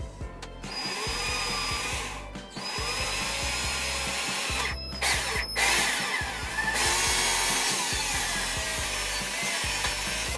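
Cordless drill boring into a wooden disc through a metal angle bracket, stopping briefly twice and starting again. Background music plays underneath.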